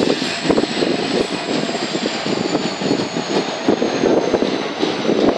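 Passenger express train rolling into a station, heard from on board: a steady running rumble of wheels on rail with frequent uneven knocks, and a thin high whine that slowly falls in pitch as it slows.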